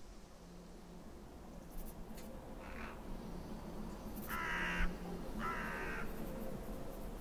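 A bird calling three times with harsh caws, each about half a second long, the first faint and the last two louder.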